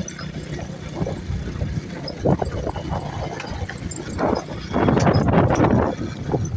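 Ride noise from a moving vehicle: a low, ragged rumble with wind on the microphone, and indistinct voices breaking through a little past the middle.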